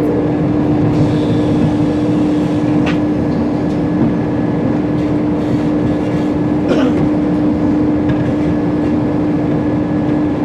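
Train carriage interior: a steady hum and rumble from the train's running equipment, with a couple of brief knocks about three and seven seconds in.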